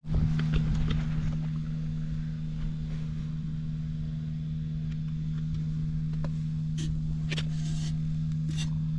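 Honda XL250S's single-cylinder four-stroke engine idling steadily with no abnormal noises, with a few light clicks and rattles near the end.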